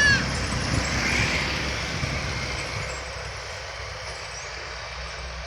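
Heavy truck engine rumbling past, its sound fading steadily as the truck moves away.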